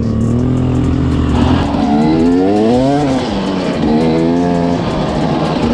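Off-road vehicle engine running steadily, then revving up and down twice, its pitch rising and falling about two seconds in and again near four seconds.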